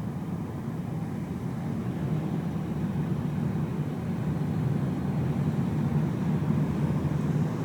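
Car interior while driving: a steady low road and engine drone heard from inside the cabin, slowly getting a little louder.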